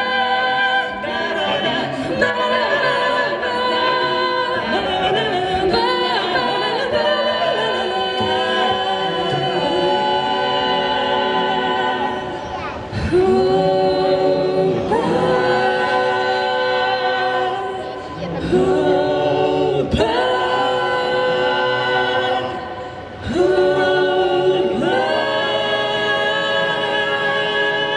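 A cappella vocal group singing in close harmony, without instruments, holding sustained chords that change every few seconds.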